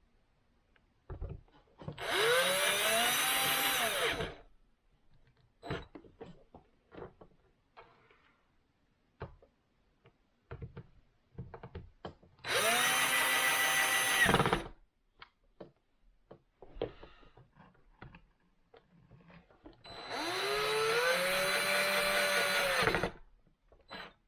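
Power drill driving screws in three runs of about two to three seconds each. The motor whine rises in pitch as it spins up, then holds steady. Light clicks of handling come between the runs.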